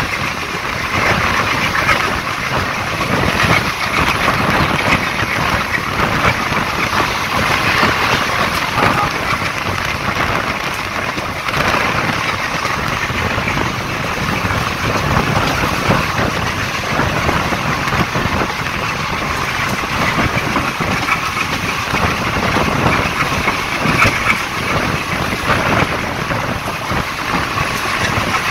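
Passenger train running steadily at speed, heard from beside the coach: a continuous rumble of wheels on rail mixed with wind noise on the microphone.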